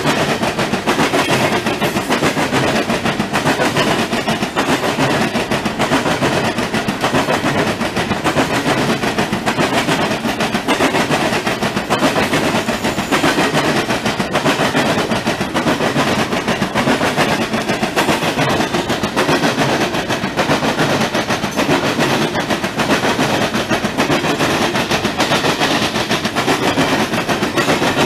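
Loaded Norfolk Southern coal hopper cars rolling past, their steel wheels clattering over crossing rails in a rapid, continuous run of bangs.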